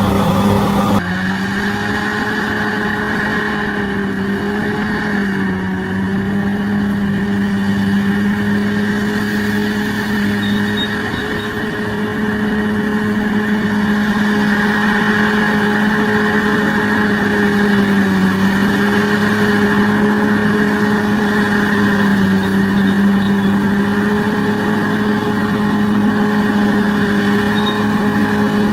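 Heavy diesel engine of a bulldozer running steadily at a constant pitch that rises and dips slightly, with an abrupt change in the sound about a second in.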